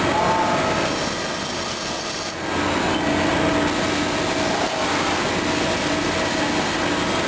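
Steady machine-shop noise from CNC machinery at work, with a constant hum; a lower hum joins about two and a half seconds in.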